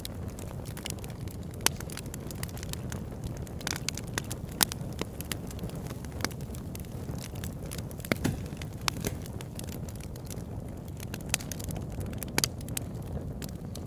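Wood fire of a large log burning in a converted oil drum, crackling with irregular sharp pops over a steady low rumble.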